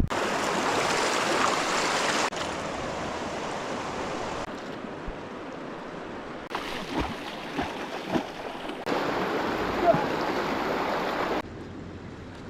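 Rushing river water, a steady hiss that changes abruptly in loudness every two seconds or so, with a few faint knocks in the middle.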